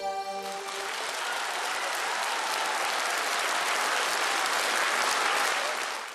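Audience applauding as a song ends. The last notes of the accompaniment fade out in the first second, and the applause fades away near the end.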